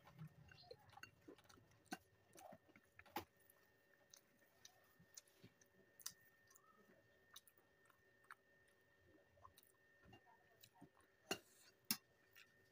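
A person eating quietly, with soft chewing and mouth sounds and scattered small clicks. There are a few sharper clicks about three seconds in and twice near the end.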